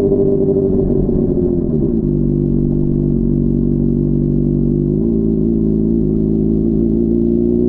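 Honda CBR600RR inline-four engine heard from the bike as it rides: the engine note falls as the rider rolls off the throttle, holds low and steady, then rises gently near the end as it picks up revs again.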